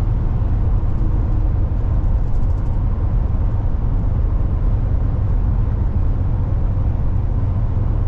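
Steady road noise from inside a moving car: a low rumble of engine and tyres on the pavement.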